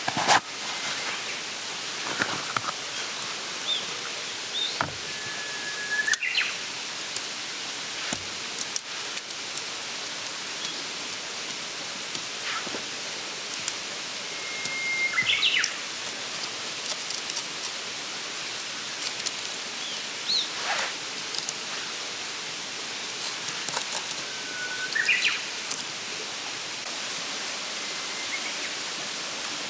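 A mountain stream rushing steadily, with a small bird singing three times, each song a held whistle that ends in a quick rising flourish. A few faint knocks stand out against it.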